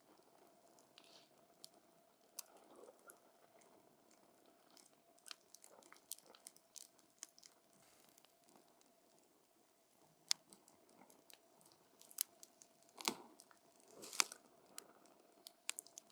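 Campfire wood burning, crackling with irregular sharp pops and snaps; a few louder pops come in the second half.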